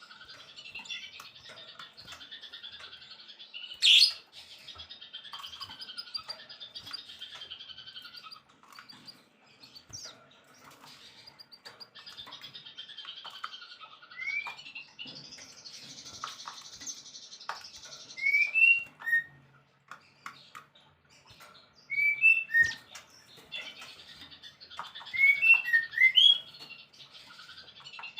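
Songbird singing: a continuous high, fast chatter broken by short upward-slurred whistles that come in quick runs in the second half. A single sharp click stands out about four seconds in.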